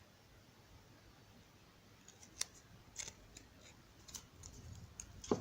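Packaging being handled and unwrapped by hand: scattered sharp clicks and crinkles starting about two seconds in, with a louder knock near the end.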